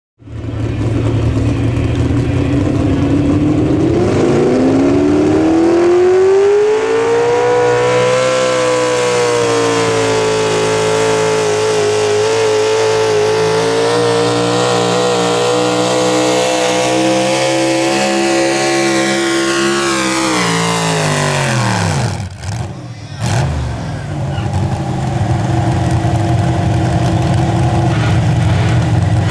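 A pulling vehicle's engine revs up from a low, steady run about four seconds in and holds high and loud for roughly fifteen seconds, as on a pull down the track. Around twenty seconds in the revs sweep down, and after a brief drop-out the engine runs low and steady again.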